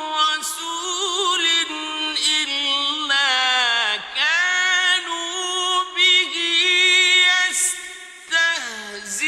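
A male voice reciting the Quran in slow, melodic tajweed style, holding long ornamented notes, with short breaks for breath about four seconds in and after about eight seconds.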